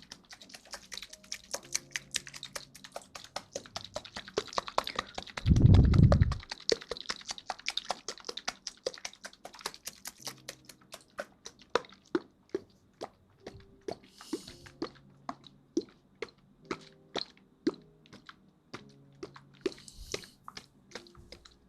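Dense, irregular clicking and tapping close to the microphone, with a brief heavy thump about six seconds in and two short hissing rustles later on.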